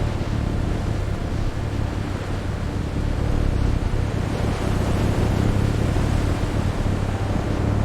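Steady roar of storm wind with a low, constant rumble underneath, unchanging throughout.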